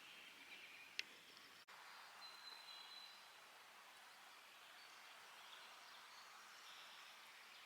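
Faint outdoor ambience by a lake with distant birds calling now and then, and a single sharp click about a second in.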